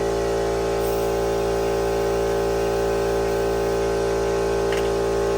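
A steady hum at one fixed pitch that does not change.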